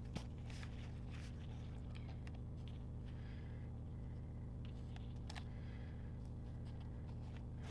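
Faint, scattered taps and rustles of paper stickers being handled and pressed onto a planner page, over a steady low hum.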